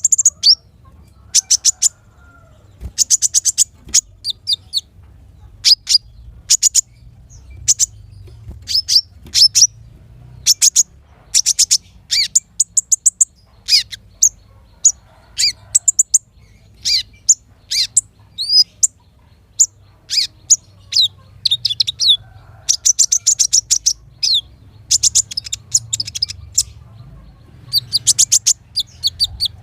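Small songbird singing sharp, high-pitched chirps and fast trilled phrases in quick bursts with short pauses between them, over a faint low hum.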